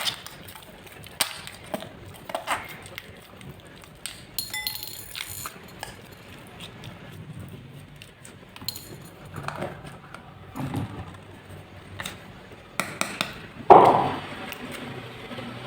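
Slime-making handling sounds: scattered light clinks and taps of containers and tools, with a brief ringing ping about four and a half seconds in and a louder noisy burst lasting about a second near the end.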